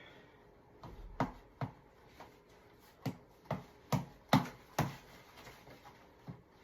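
Tap ball (boxing reflex ball) being punched: a run of sharp smacks, about eight, irregularly spaced, bunched between about one and five seconds in, with a softer one near the end.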